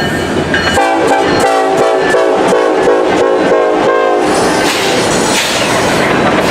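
Diesel freight locomotive's air horn blowing for about three seconds over the rumble of the train, then the noise of the train rolling by.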